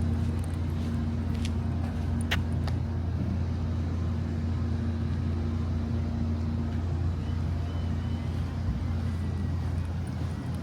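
Steady low drone of a running engine or motor, with a short sharp click about two seconds in.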